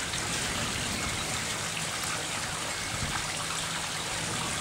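Storm runoff from a hail downpour running down a desert wash and into drainage pipes: a steady rush of flowing water.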